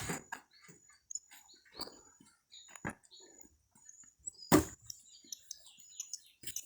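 Scattered knocks of firewood being handled and stacked for a bonfire, the loudest about four and a half seconds in. Birds chirp faintly.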